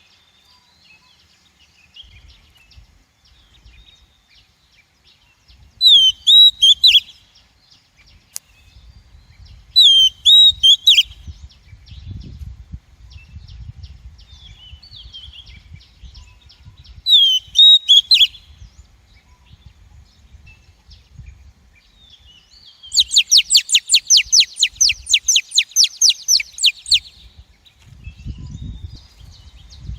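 Female Oriental magpie-robin calling: three short, sharp call phrases several seconds apart, then a fast chattering rattle of rapid repeated notes lasting about four seconds. A faint low rumble runs underneath. This is the lure call used to draw wild magpie-robins to a trap.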